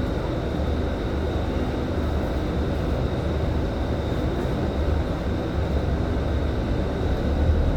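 Scania K310IB city bus under way, heard from inside the cabin: a steady rumble of the engine and road noise, with a faint steady high whine over it.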